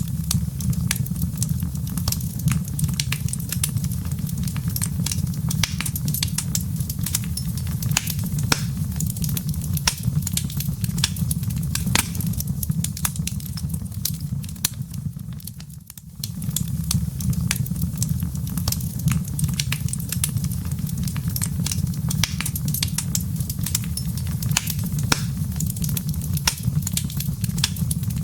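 Wood fire in a fireplace burning with a steady low rumble and many sharp crackles and pops of burning wood and embers. It briefly fades and comes back just past halfway.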